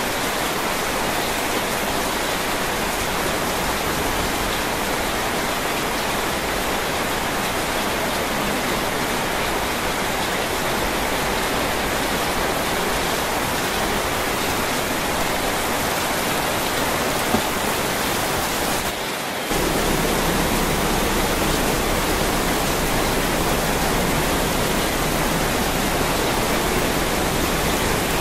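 Heavy rain pouring steadily, a dense even hiss. About two-thirds of the way through it breaks off for a moment and comes back slightly louder.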